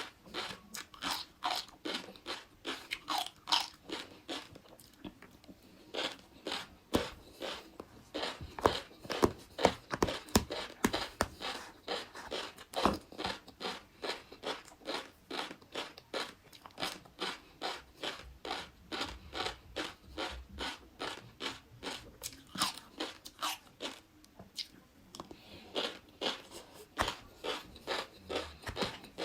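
Close-miked chewing of flying fish roe (tobiko), with a steady run of crisp little pops and crunches about three a second as the eggs burst between the teeth.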